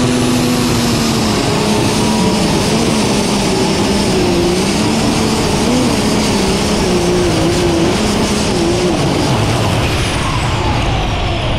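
Limited super stock pulling tractor's turbocharged diesel engine running loud and hard under load, its pitch wavering. Near the end, a high whine falls steadily in pitch.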